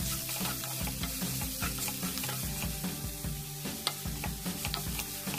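Shredded cabbage, capsicum and carrot sizzling in hot oil in a kadhai, stirred with a wooden spatula.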